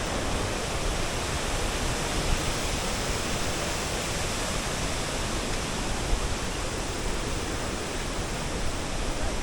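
Steady rushing of a waterfall, an even wash of falling water without a break.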